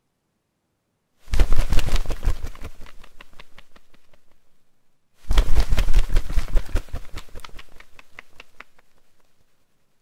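Birds making two bursts of rapid clattering. Each burst starts suddenly, about a second in and again about five seconds in, and fades away over three to four seconds.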